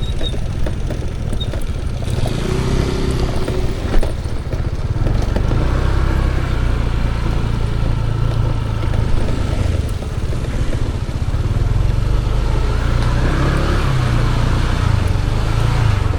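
An engine running steadily, a vehicle on the move, with a short knock about four seconds in.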